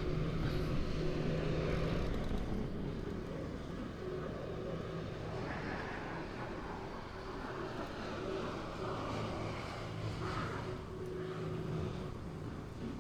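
Heavy truck's diesel engine running while driving, with steady road noise; the engine note is strongest in the first two seconds, eases, then builds again about eight seconds in.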